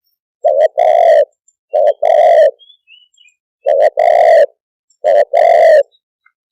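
Spotted dove cooing: four loud two-part coos, each a short note running straight into a longer one, delivered in two pairs with a pause of about a second between the pairs.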